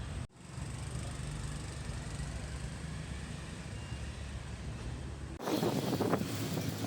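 Steady low rumble of a vehicle. About five and a half seconds in it cuts abruptly to louder, busier street noise with scattered knocks and clicks.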